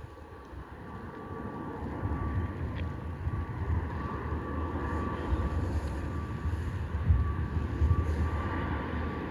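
Embraer E190 jet airliner's twin General Electric CF34-10E turbofan engines: a low rumble with a thin steady whine on top, growing louder over the first two seconds and then holding.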